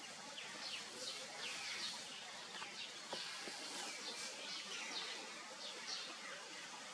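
Small birds chirping, with many short, high notes that fall in pitch, scattered irregularly over a steady outdoor hiss.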